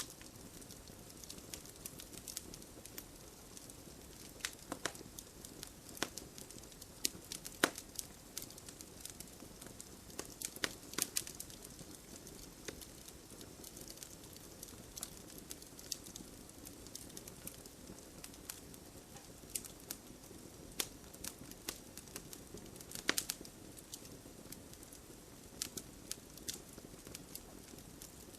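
Campfire burning, wood crackling and popping in irregular sharp snaps over a steady low hiss of flame, with a few louder pops.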